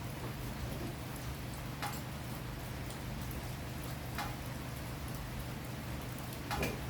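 Steady rain falling, with a sharp tick about every two seconds, three in all.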